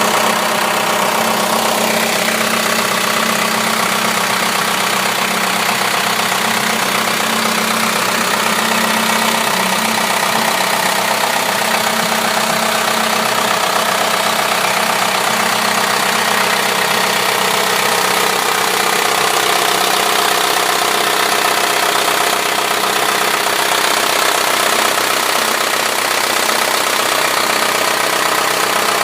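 The engine of a 2000 GMC W4500 truck idling steadily.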